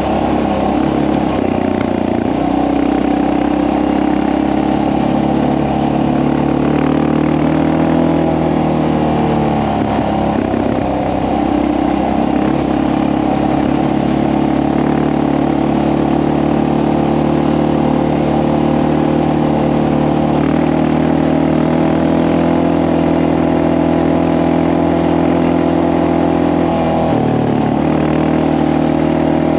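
2014 Honda XR650L's single-cylinder four-stroke engine running under way, its pitch rising and falling with throttle and gear changes, with a marked dip about ten seconds in and again near the end.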